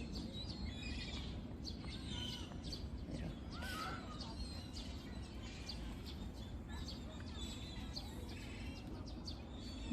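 Many short, quick bird chirps over a steady low rumble of outdoor background noise.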